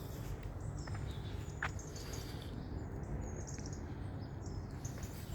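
Small birds chirping, with short high calls scattered through, over a steady low rumble and a few faint clicks.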